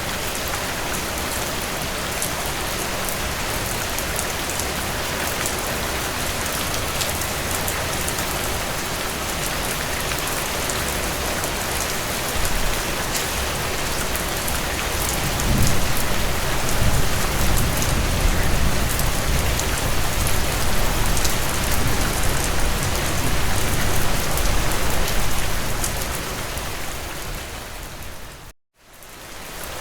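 Heavy rain drumming on a tin roof, a dense steady patter with sharp drop ticks. About halfway through a low thunder rumble swells up and rolls on for around ten seconds before fading. Near the end the sound cuts out for an instant and fades back in, as at a loop point in the recording.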